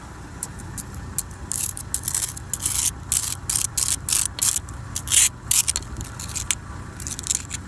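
Swiss Army knife blade scraping and chipping into a sheet of solid ice on pavement in many short, irregular strokes, gouging down through the ice to gauge its thickness.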